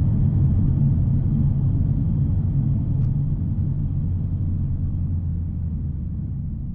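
Mercedes-AMG A45 S's 2.0-litre turbo four-cylinder engine and exhaust giving a steady low rumble at an even pitch, fading away gradually.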